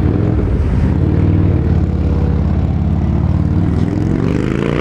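2013 Harley-Davidson Road King's 103 cubic inch V-twin idling through Vance & Hines slip-on mufflers with a deep rumble. The engine revs up near the end.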